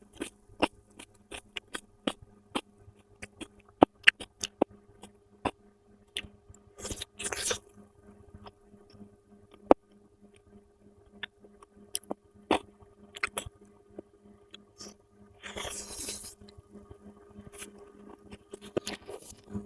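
Close-miked eating: sharp clicks and smacks of chewing, with two longer crunchy bursts, about seven seconds in and again around sixteen seconds. A faint low hum runs underneath.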